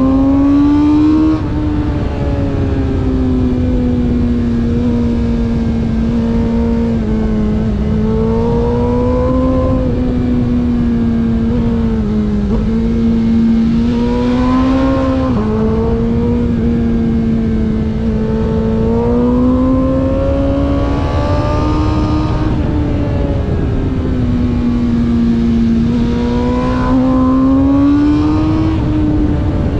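Racing vehicle's engine heard onboard, running hard continuously, its pitch rising and falling with the throttle, with a few sudden drops in pitch, such as around twelve and fifteen seconds in.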